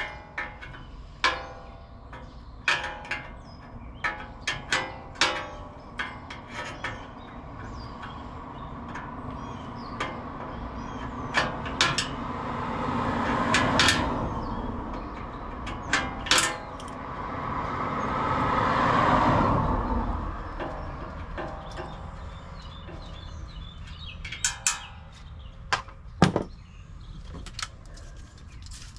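Scattered metal clicks, taps and knocks from tools and parts as a condenser fan assembly is worked on. Twice, about 13 s and 19 s in, a rushing noise swells and fades.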